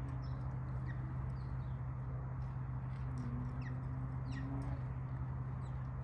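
Birds giving faint, short, falling high chirps several times over a steady low hum and background noise.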